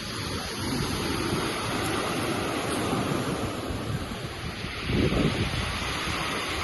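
Sea waves washing ashore, with wind buffeting the microphone; the surf is choppy in the evening swell. It swells briefly louder about five seconds in.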